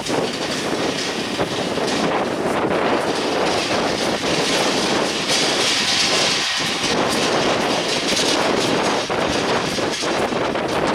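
Passenger train with LHB coaches passing close by: a steady rush of wheels on rail, loudest about halfway through. Irregular sharp clicks come through near the end.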